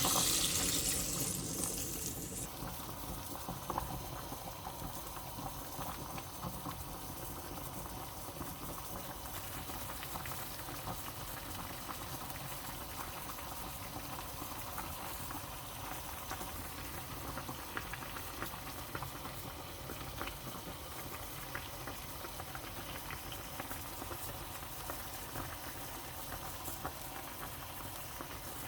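A pot of chicken broth with vegetables boiling, many small bubbles popping steadily. A louder rush of water at the start fades out about two seconds in.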